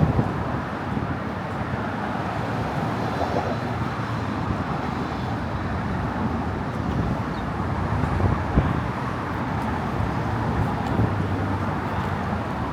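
Steady road traffic noise from cars crossing the Brooklyn Bridge's roadway, a continuous low rumble with small swells.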